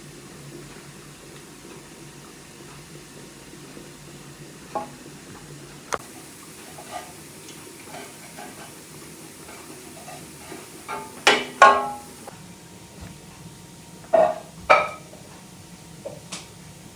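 Kitchenware clinking and knocking: scattered sharp clinks, a few of them ringing briefly, with the loudest coming in two pairs past the middle.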